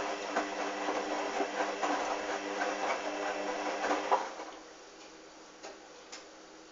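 Hoover washing machine turning its drum in the wash phase: the motor hums steadily while the wet towel load tumbles with irregular knocks and swishes. About four seconds in, the drum stops, leaving a quiet background with two faint clicks.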